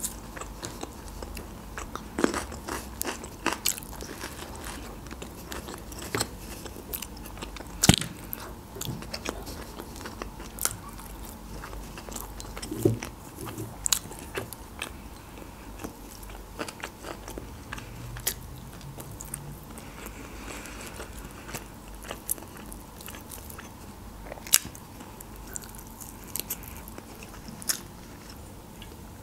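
A person chewing and biting food close to the microphone, with scattered sharp crunches and mouth clicks; one click about eight seconds in is the loudest.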